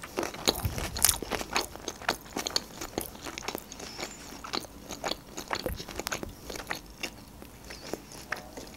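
A person chewing a mouthful of rice-paper shrimp spring roll: a quick run of wet clicks and soft crunches that thins out after about three and a half seconds.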